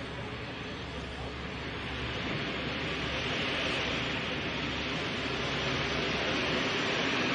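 A train on the move: a steady rushing, hissing noise that slowly grows louder.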